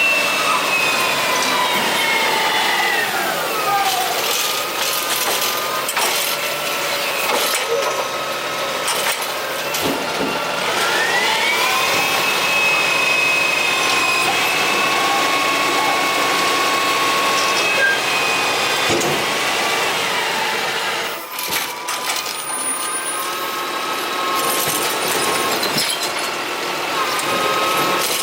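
Curbtender garbage truck's hydraulic pump whining with the engine. It falls in pitch early on, rises about ten seconds in as the engine revs up, holds steady, then drops again about twenty seconds in, with a few clanks from the arm. The extra engine speed is what the uploader says got the malfunctioning automated arm to complete its cycles.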